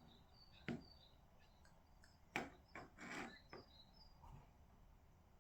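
Near-silent room with a few short soft knocks and a brief scraping rub, with faint short high chirps in the background.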